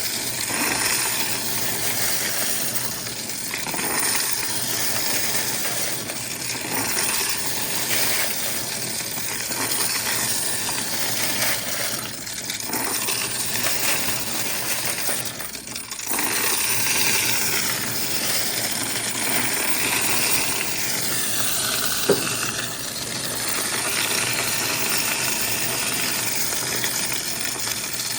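Quarters clattering and clinking without pause as they run through a coin-counting machine, with two brief lulls midway.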